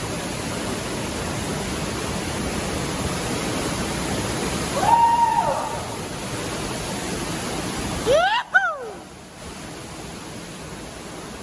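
Waterfall rushing, a steady noise of falling water. Two short pitched calls rise and fall over it, about five seconds in and again near eight and a half seconds. The rush drops quieter just after nine seconds.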